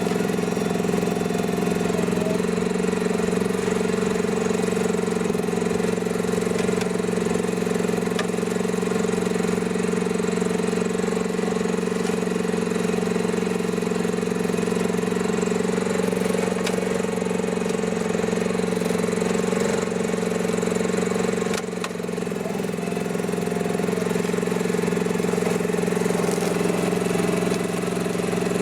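Mini excavator engine running steadily while it drives a homemade hydraulic brush mower. The sound dips briefly about three-quarters of the way through, then picks back up.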